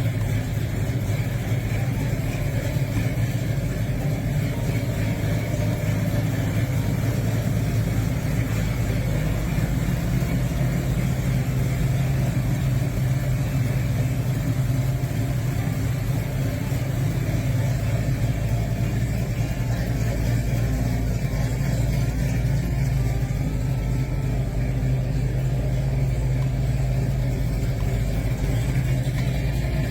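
Chrysler 340 small-block V8 with Flowmaster dual exhaust running steadily at an even low rumble.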